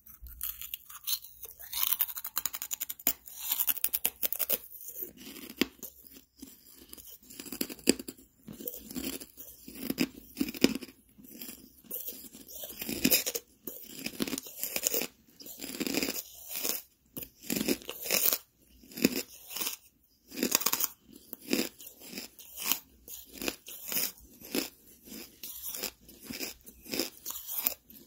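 Close-up mouth sounds of a person crunching and chewing a hard block of charcoal: a long run of sharp, gritty crunches, each chew a short stroke, with brief lulls about 6 and 20 seconds in.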